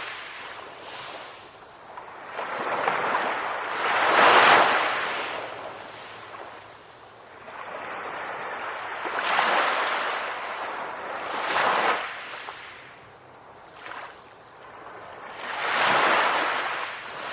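Ocean waves breaking on a shore: surges of surf that swell and wash back again several times, the loudest about four seconds in.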